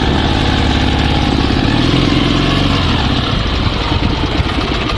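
Dnepr 16 sidecar motorcycle's flat-twin engine running steadily, its pitch rising slightly in the first couple of seconds.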